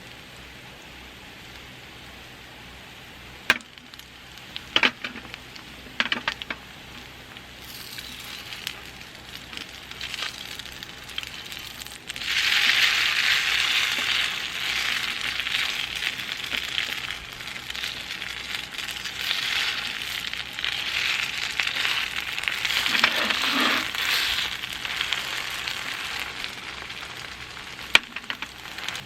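Food sizzling in a hot pan, after a few sharp clicks. The sizzle jumps loud about twelve seconds in and eases off near the end.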